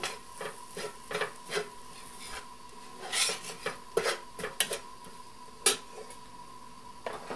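A utensil stirring in a frying pan, scraping and knocking against the pan in irregular clicks, as diced onions and curry powder are fried off in oil.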